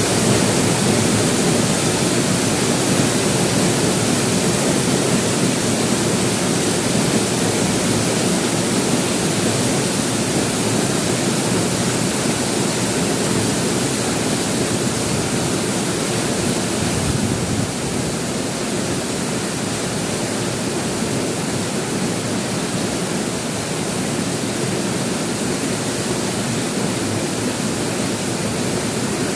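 Heavy rain falling steadily: a dense, even hiss that drops slightly in level a little past halfway.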